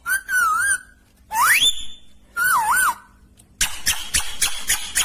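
Pet parrot whistling: a wavering whistle, then a quick whistle sliding steeply upward, then a whistle that dips twice. From about three and a half seconds in, it breaks into rapid clicking chatter.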